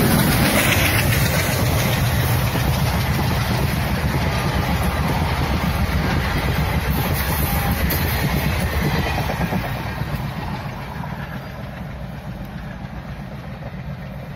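Diesel locomotive passing close, its engine loudest at the start. Then a long rake of passenger coaches rolls by, wheels running over the rails, and the sound fades as the train moves away.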